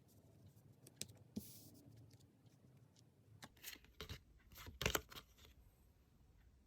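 Tarot cards being handled on a table: faint scattered taps and rustles of cards, a couple about a second in and a denser cluster with the loudest taps around five seconds in.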